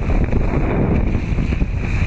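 Loud, steady wind buffeting the camcorder's microphone over rushing sea water.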